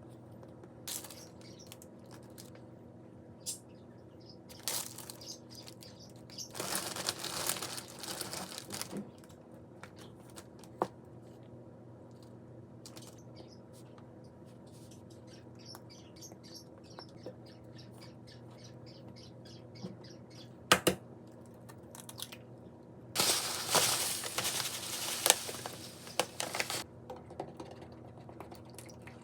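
Kitchen handling sounds from preparing food: scattered light clicks and taps, two longer stretches of rustling or scraping, and one sharp knock about twenty seconds in, over a steady low hum.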